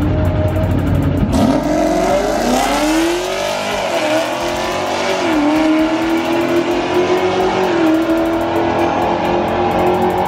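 Drag car launching hard off the starting line about a second and a half in and accelerating down the strip, its engine note climbing in pitch and dropping back at several gear shifts.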